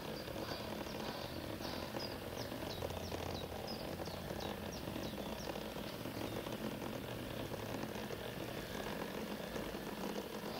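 Steady low running noise, typical of an LGB G-scale model train running on an outdoor garden track. Over the first half, a bird gives a quick run of short, high, falling chirps.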